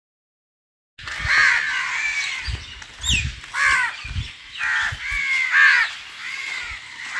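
Harsh bird calls repeated in a quick series, starting suddenly about a second in after silence.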